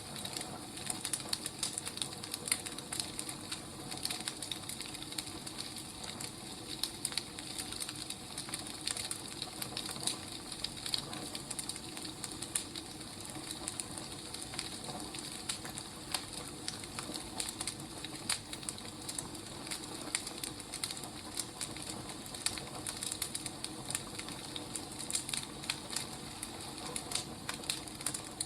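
Wood fire crackling: a steady hiss with many quick, irregular pops and snaps.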